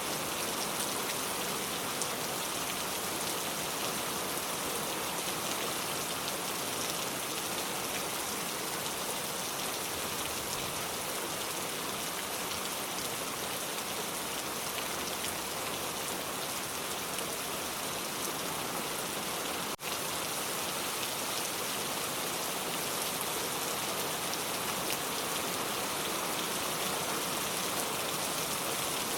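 Steady rain falling, an even hiss of many drops with no change in strength, broken by one momentary dropout about two-thirds of the way through.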